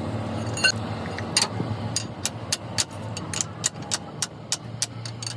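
A run of sharp metallic taps or knocks, about two to three a second, starting under a second in, some with a brief ring. Under them runs a steady low machine or engine hum.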